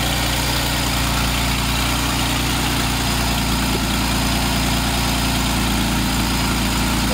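Jeep Wrangler JK's V6 engine idling steadily, with the freshly refilled cooling system being burped of trapped air through a funnel on the radiator neck.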